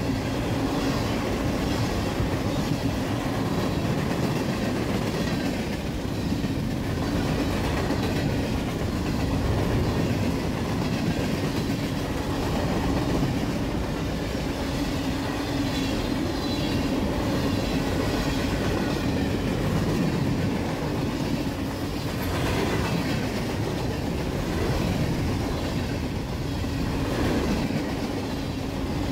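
Freight train of tank cars and covered hopper cars rolling past close by: steel wheels running steadily on the rails, an unbroken rumble with a steady low tone.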